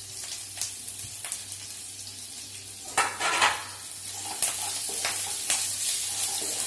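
Freshly added sliced onions sizzling in hot oil in a non-stick kadai with chillies and curry leaves, stirred with a wooden spatula. The spatula makes scraping taps against the pan, with two louder strokes about three seconds in, and the sizzle grows stronger in the second half.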